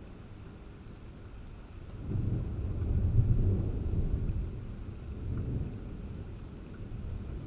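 Thunder rumbling in a thunderstorm, swelling about two seconds in, loudest a second later, then slowly fading.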